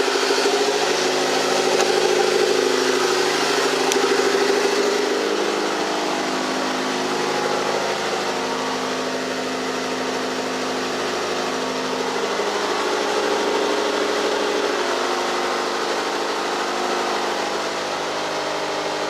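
Turbocharged Honda D16Y8 1.6-litre four-cylinder engine idling steadily in a Civic EG, a little quieter after about five seconds.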